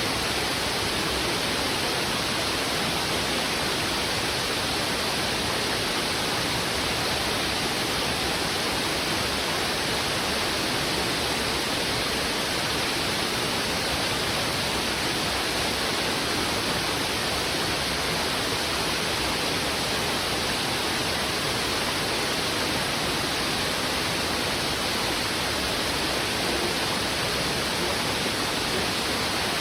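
Heavy river current rushing over rocks: a steady, even hiss of water with no breaks or distinct splashes.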